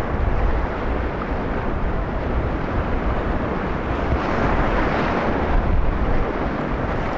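Whitewater rapids rushing: a loud, steady, dense water noise that swells a little about four seconds in.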